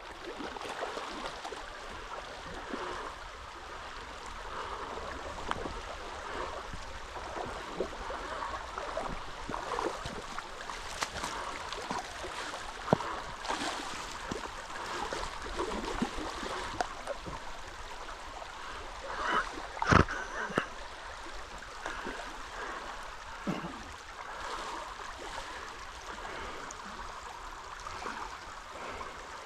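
Shallow creek water running steadily over stones, with scattered small splashes and clicks and one brief sharp sound about twenty seconds in.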